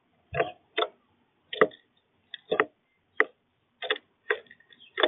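Birds pecking at seed on a feeder: a run of sharp, irregular taps and knocks, about one every half second to a second.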